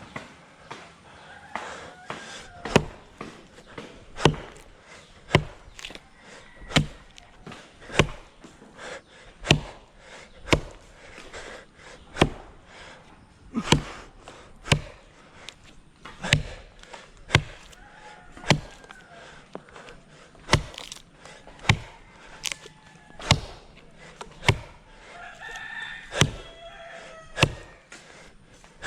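Steady chopping with a blade into the wood of a dry jackfruit tree, about twenty blows a little over a second apart. A rooster crows in the background, most clearly near the end.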